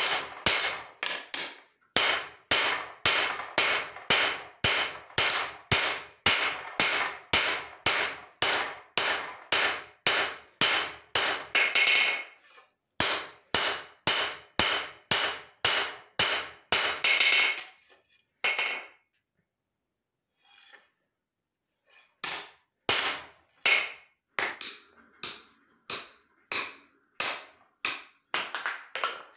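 Hand hammer striking leaf-spring steel on an anvil in steady blows about two a second, each with a metallic ring. The blows stop for a few seconds after about eighteen seconds, then resume more lightly.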